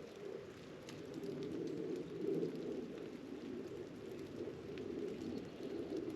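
Mourning doves cooing, a steady low cooing with no clear pauses, with faint scattered ticks over it.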